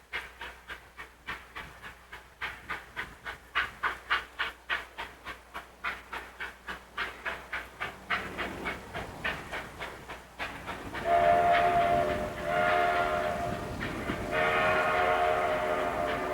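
Steam locomotive working hard up a steep grade with three cars: its exhaust beats out about four chuffs a second. About two thirds of the way in, its whistle sounds three long blasts, louder than the chuffing.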